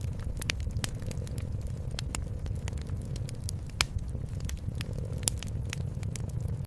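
Wood fire crackling with irregular sharp pops, the loudest about four and five seconds in, over a steady low cat purr.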